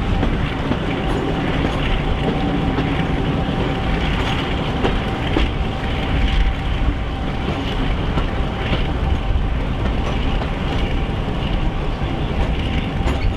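Passenger train hauled by the Warship diesel-hydraulic D821 running at speed, heard from an open coach window: steady rumble and wheels clicking over the rail joints, with wind buffeting the microphone and a steady whine.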